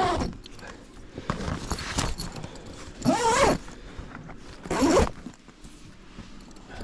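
Tent zipper being pulled shut in about three rasping strokes, the later two rising and falling in pitch.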